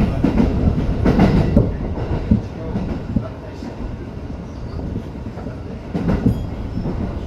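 Tokyo Metro 05 series train running at speed, a steady low rumble with the wheels clacking over rail joints, in clusters in the first couple of seconds and again about six seconds in.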